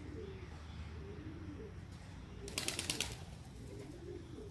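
Pigeons cooing repeatedly, with a brief burst of rapid wing flapping a little past halfway through.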